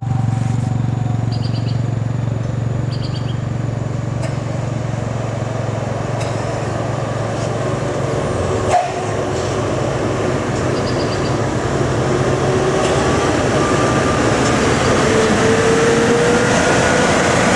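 Loaded dump truck's diesel engine running with a steady low hum as it rolls down a long, steep grade. About halfway through there is a single sharp knock, and after that the noise slowly grows louder, with thin whining tones coming in. A bird chirps twice in the first few seconds.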